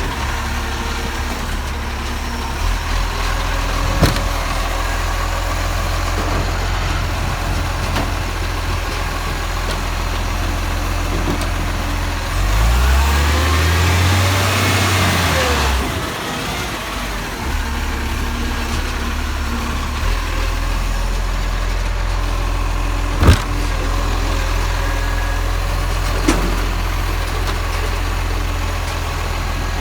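Garbage truck engine idling steadily, revving up and back down about halfway through, with a couple of sharp knocks.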